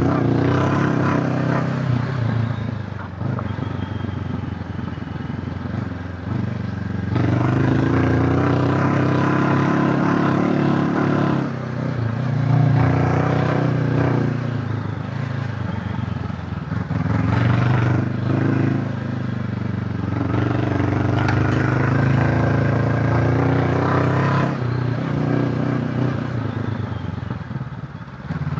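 Honda CB500X parallel-twin engine pulling under way, its revs falling and picking up again several times with throttle and gear changes.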